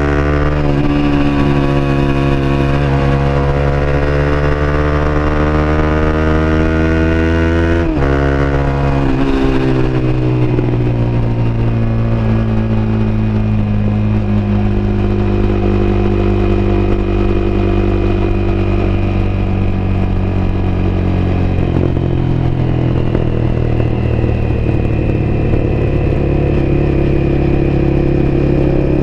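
Honda CBR250R's single-cylinder engine running under way, recorded on board. The engine note dips sharply and briefly about eight seconds in, then falls slowly in pitch and settles to a steady note.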